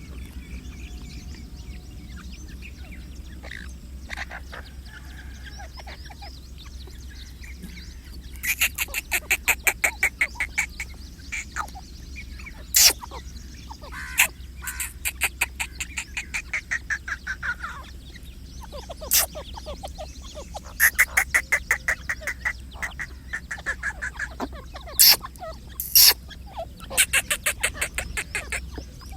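Grey francolin calling in bouts of fast, rattling repeated notes, each bout a few seconds long, starting about eight seconds in. Several sharp, loud clicks fall between the bouts, over a low steady hum.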